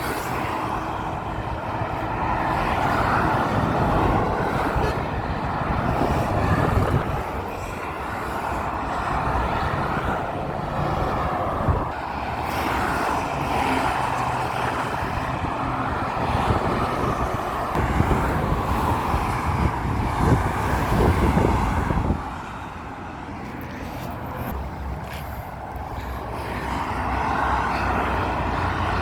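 Roadside traffic noise: trucks and cars driving past steadily, the rumble rising and easing as vehicles go by.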